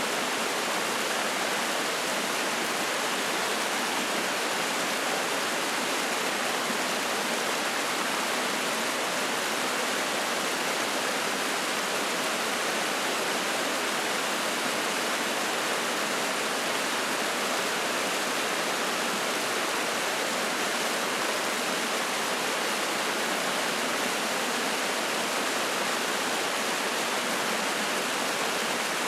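Spring-fed mountain stream splashing and rushing steadily over rocks.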